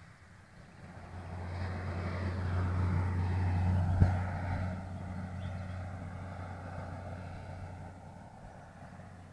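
Air Tractor AT-502B crop duster's single turboprop engine and propeller on a low flyby: the drone builds over the first few seconds, peaks about four seconds in with one sharp click, then drops in pitch and fades as the plane goes away.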